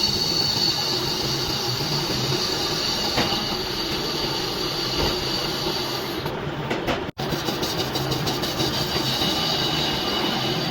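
Metal lathe turning a hydraulic jack piston, the cutting tool on the metal giving a steady high-pitched squeal over the machine's running hum. A brief gap in the sound comes about seven seconds in.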